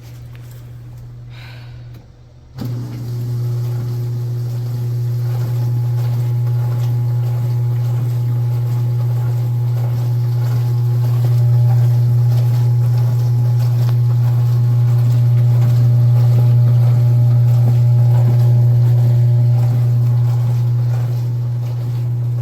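COMFEE' portable countertop dishwasher's wash pump starting up about two and a half seconds in and then running with a steady low hum, its top and bottom spray arms splashing water over the dishes.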